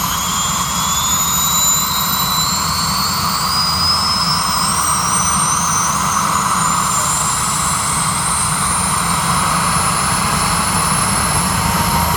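1966 Bell UH-1 Huey helicopter's turboshaft engine spooling up at start-up: a turbine whine rising slowly and steadily in pitch over a loud, steady rumble and hiss.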